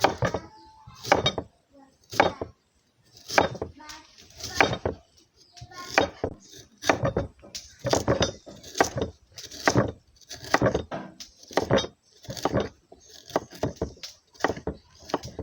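Knife chopping beetroot on a cutting board: short runs of sharp knocks that come roughly once a second.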